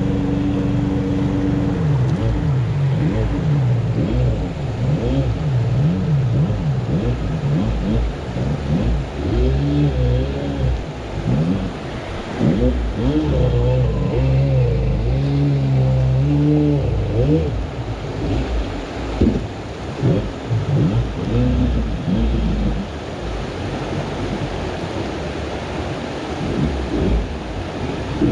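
Jet boat engine revving up and down again and again, its pitch repeatedly rising and falling, as the boat that ran aground tries to get itself off. It eases to a quieter, steadier sound for the last few seconds.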